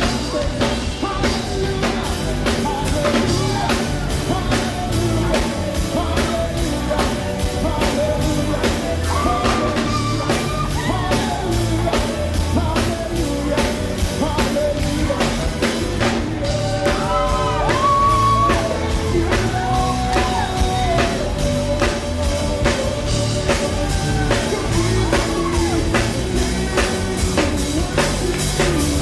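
A live worship band playing a rock-style song: a drum kit keeps a steady beat while voices sing over the band.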